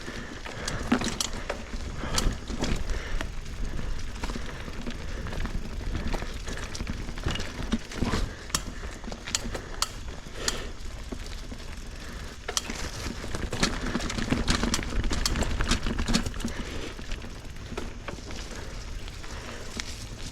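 Mountain bike riding over rough trail: frequent sharp clicks and rattles from the bike, over a steady low rumble of tyres and wind on the microphone.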